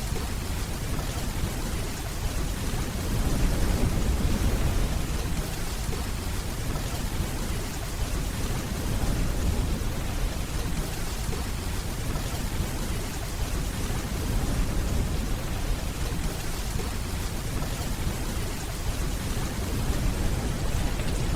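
Steady rain hiss with a low rumble of distant rolling thunder underneath, swelling about three seconds in and again near the end.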